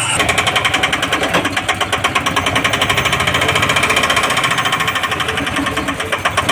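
Single-cylinder diesel engine of a Bajaj Maxima auto-rickshaw running with a fast, even knock of about ten beats a second.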